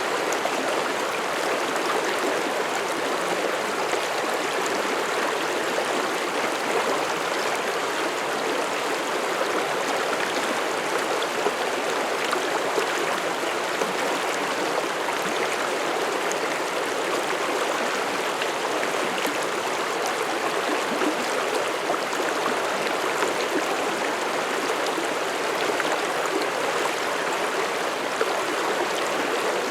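Mountain stream flowing over rocks: a steady rush of running water with gurgling and splashing.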